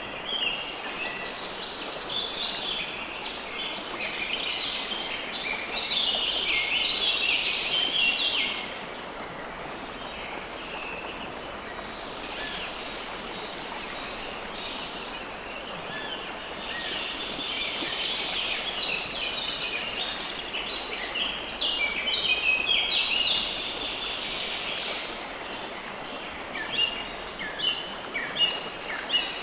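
River water flowing in a steady rush while many small birds chirp and call over it in dense bursts. The birdsong thins for a few seconds about a third of the way in, then picks up again.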